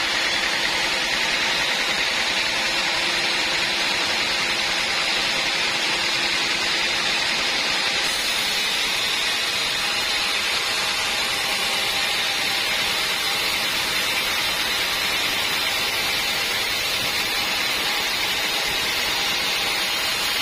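Sawmill band saw running steadily, a continuous even machine noise with a high hiss and no breaks or changes.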